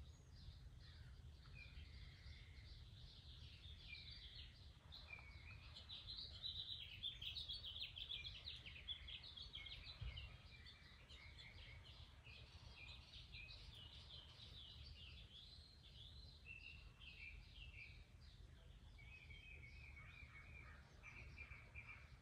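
Faint birdsong: many quick, irregular chirps, busiest a few seconds in, with a repeated short note near the end, over a low steady rumble.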